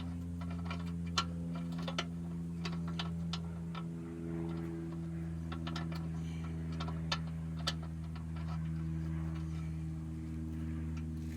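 Scattered light clicks and taps of tools and parts being handled under a car during an oil change, irregularly spaced, over a steady low hum.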